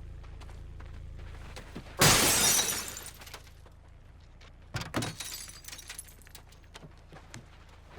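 Glass shattering in a sudden loud crash about two seconds in, the breaking fading out over about a second, over a low steady hum. A few smaller knocks follow about five seconds in.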